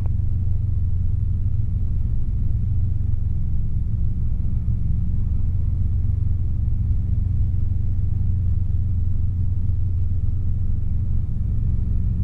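Steady low drone of a Robinson R22 helicopter's engine and rotors, heard from inside the cabin as the helicopter lifts.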